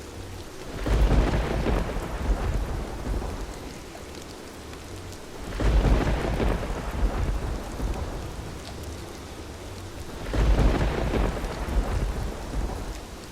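Heavy rain falling steadily under three rolls of thunder. The thunder comes about a second in, near the middle and near the end, each roll rumbling for two or three seconds before fading back into the rain.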